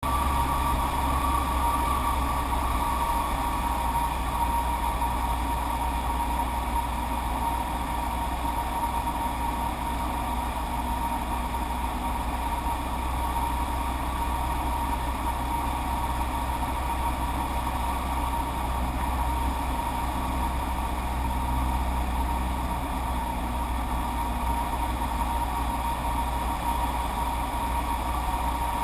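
Steady engine drone with a constant whine, over a low rumble of wind on the microphone.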